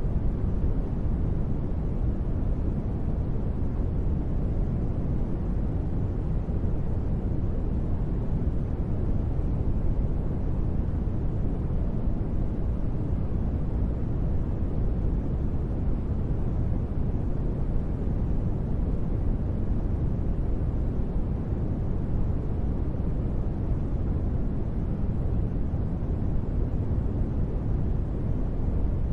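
Steady ambient noise bed used as deep-space sleep ambience: an even, unbroken rumbling hiss weighted toward the bass, with little in the highs.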